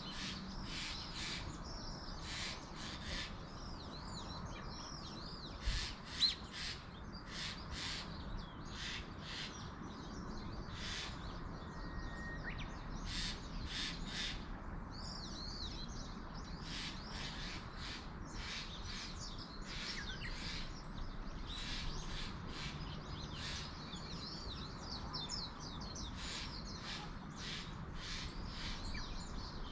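Wild birds calling and chirping over and over in short, pitch-curving notes, over a steady background hiss of the outdoors. Two brief low knocks come about six seconds in.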